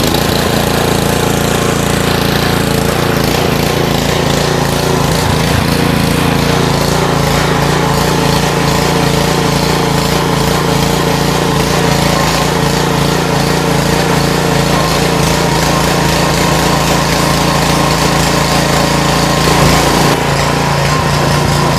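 Small gasoline engine of a pressure washer running steadily just after starting.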